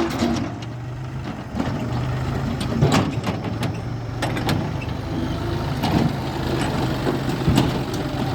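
Diesel engine of a JCB 3DX backhoe loader running steadily, with sharp metallic knocks and clanks every second or so during mud loading.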